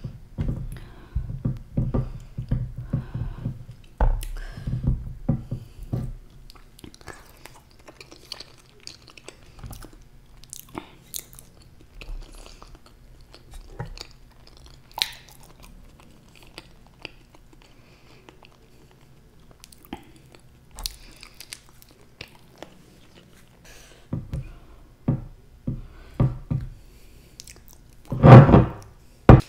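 Close-miked chewing of soft banana coated in Nutella and chocolate sauce, in busy bursts at the start and again near the end with quieter stretches of faint mouth clicks between. The loudest sound is a short, louder bite or mouth sound just before the end.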